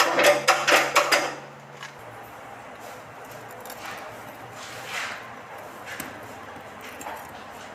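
A quick, even run of sharp knocks, about six a second, that stops about a second and a half in, over a low steady hum that then carries on more quietly.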